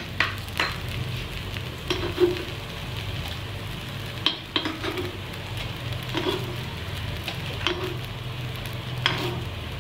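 Paniyaram frying in oil in a paniyaram pan, a steady sizzle, with scattered sharp clicks of a metal spoon against the pan as the dumplings are lifted out of their wells.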